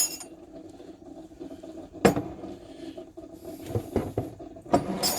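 Glass jars and kitchen things knocked and set down on a counter: several sharp knocks, about two seconds in, around four seconds and near the end, with a short scraping rub just before the fourth second.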